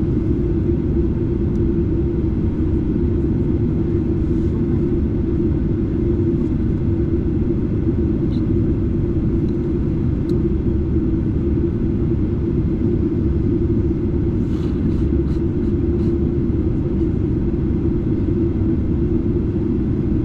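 Steady, loud low rumble inside the cabin of a Boeing 737-8 in flight, from a seat near one of its CFM LEAP-1B engines: engine drone and airflow noise with no change in level.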